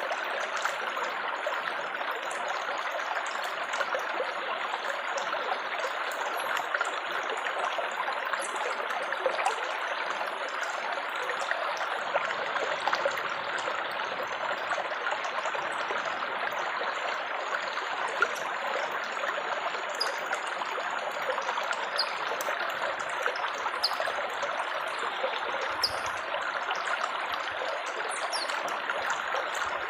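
Running water babbling and trickling steadily, with small sharp splashing ticks over it.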